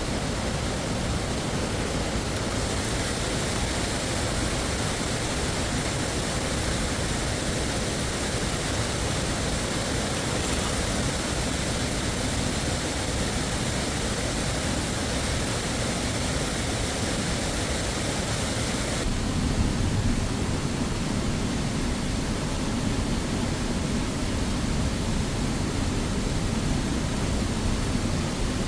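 Steady rushing of a waterfall, its tone shifting twice.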